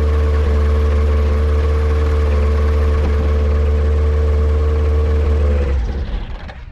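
Yamaha Apex four-cylinder engine of a Kitfox airplane running steadily at an even speed, then shut off near the end and quickly winding down.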